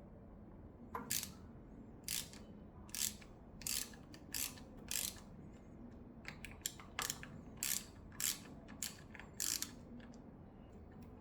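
Ratchet wrench worked in short strokes: about a dozen quick high-pitched ratcheting bursts, roughly one every 0.7 s, stopping near the end.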